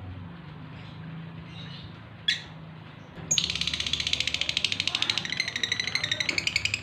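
Male lovebird in breeding condition calling: one sharp chirp, then about a second later a loud, fast chattering song of high notes at roughly ten a second.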